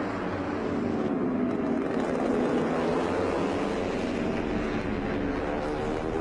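MotoGP racing motorcycle engines running at high revs, their pitch rising and falling as the bikes pass and change speed.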